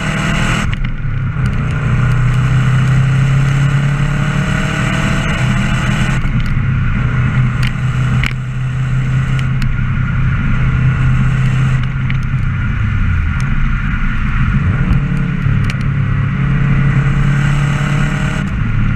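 Subaru Impreza WRX GC8's turbocharged flat-four running through a Don Silencioso aftermarket exhaust, driven under way with a deep, steady exhaust drone. The note changes abruptly a few times, and near the end the pitch climbs as the car accelerates.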